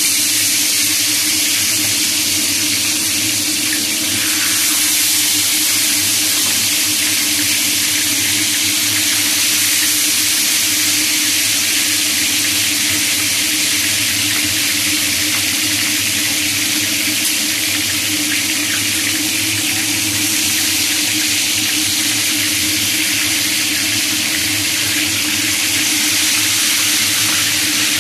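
Water running steadily from a tap into a sink, over a faint steady hum.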